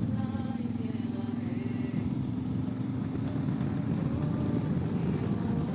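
A motor vehicle running, with a steady low rumble and a held low hum that fades out partway through.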